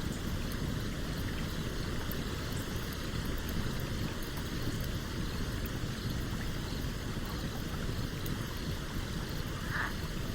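A stream flowing steadily beside a burning campfire, with faint, scattered wood crackles from the fire over the rush of the water.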